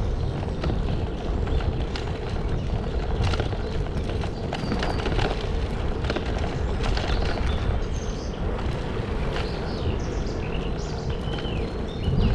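Footsteps on a woodland path with wind rumbling on the microphone, and birds chirping, more often in the second half.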